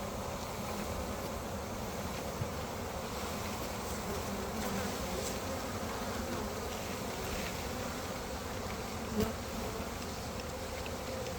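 A swarm of honeybees buzzing up close: a steady, dense hum of many bees. There are two brief knocks, the louder one near the end.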